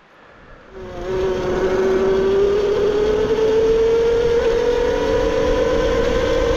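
A motor vehicle running at a steady pace, starting about a second in: a steady drone with a whine that slowly rises and then eases back.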